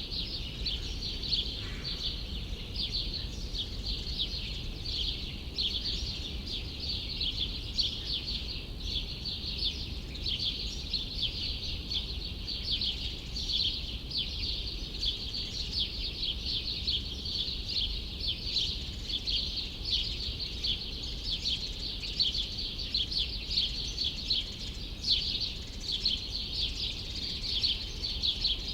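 Many small birds chirping in a dense, rapid, unbroken chatter, over a low steady city hum.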